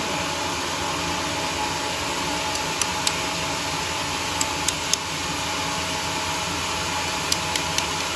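Homemade sawmill running steadily, a continuous even machine noise with sharp short ticks scattered through it in small clusters.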